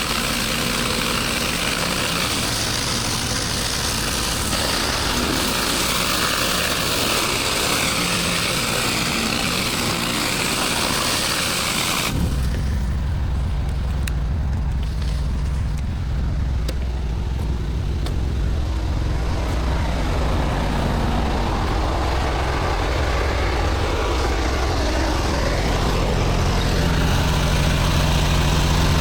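Pressure washer's engine running under a loud hiss of high-pressure water spray; about twelve seconds in, the spray cuts off suddenly and only the steady low engine hum remains.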